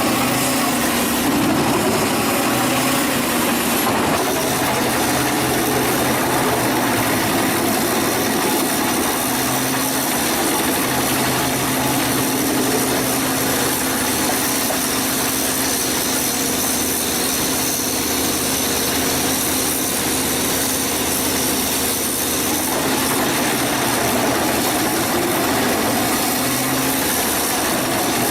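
Wood chipper's engine running steadily at a constant pitch.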